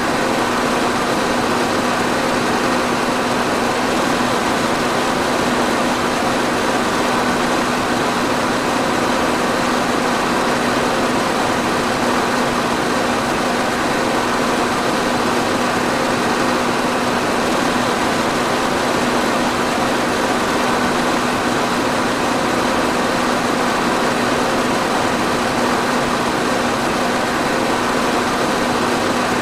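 Electric fan running steadily: an even rush of moving air with a constant low hum from the motor.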